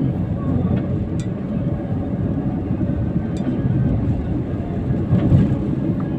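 Steady road and engine rumble heard from inside a moving car's cabin, with two faint clicks about one and three seconds in.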